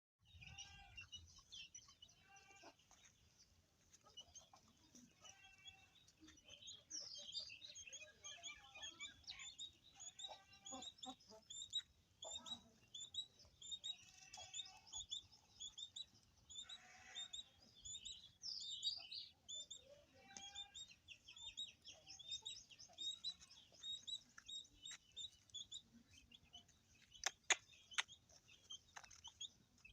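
Small birds chirping rapidly and almost without a break, with goats bleating in short calls every few seconds. A few sharp clicks come near the end.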